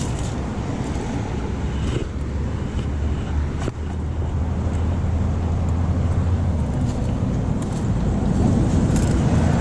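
Road traffic rumble with wind buffeting the microphone: a steady low drone that grows slightly louder near the end, with a few faint ticks.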